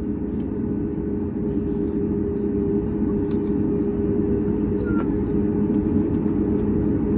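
Boeing 737 MAX 8's CFM LEAP-1B engines running at idle after start, heard inside the cabin. It is a steady hum with a constant drone over a rumble, growing gradually louder.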